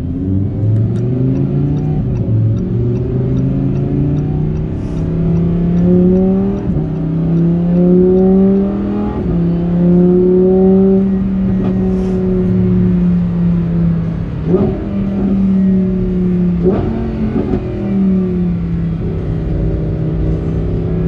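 Lamborghini Huracán Performante's naturally aspirated V10 on its stock exhaust, driven round a circuit at a moderate pace, its note rising and dropping as it runs through the gears. Two quick, sharp rises in pitch come about three-quarters of the way through.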